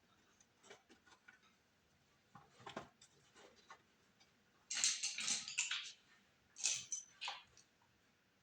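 Small loose screws clicking and rattling as they are picked through by hand, in scattered bursts with the busiest rattle about five seconds in and another shorter one around seven seconds.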